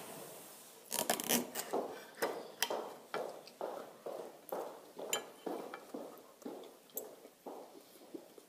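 A person chewing a mouthful of broccoli and chicken schnitzel close to the microphone, short chewing sounds about twice a second that slowly fade, with a few sharp cutlery clinks about a second in.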